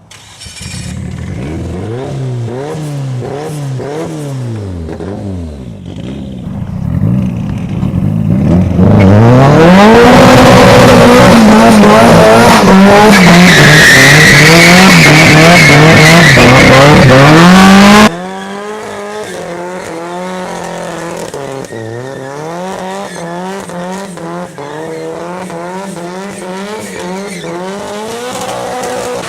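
A car engine revving up and down over and over while its tires squeal and slide. It is loudest in the middle, then drops suddenly about two-thirds of the way through to a quieter stretch of the same rising and falling revs.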